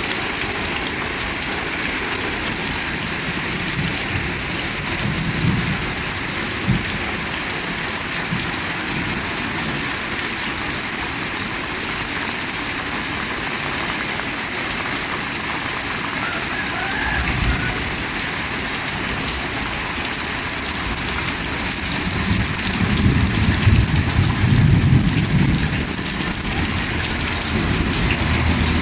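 Heavy rain falling steadily, with a few low rumbles, the loudest a few seconds before the end.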